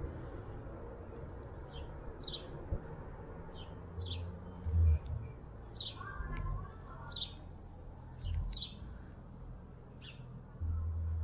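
A bird chirping repeatedly: short high chirps every second or so, some in quick pairs. Low rumbles underneath, loudest about five seconds in and again near the end.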